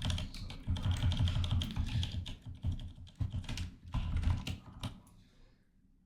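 Rapid typing on a computer keyboard, a dense run of irregular key clicks that stops about five seconds in.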